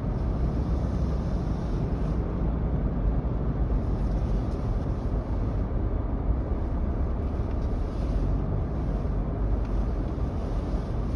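Steady car cabin noise from a car moving slowly: a low, even rumble of engine and tyres.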